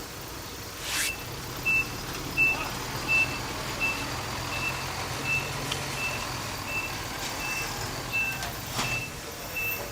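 A heavy vehicle's reversing alarm beeping steadily at one pitch, about one beep every 0.7 s, starting a couple of seconds in, over a diesel engine running low. Two short bursts of hiss sound, about a second in and near the end.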